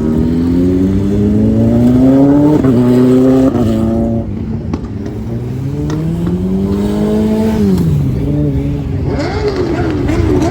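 Engine accelerating hard through the gears: its pitch climbs, drops back at shifts about two and a half and three and a half seconds in, climbs again and falls off near eight seconds. Quick revs waver near the end.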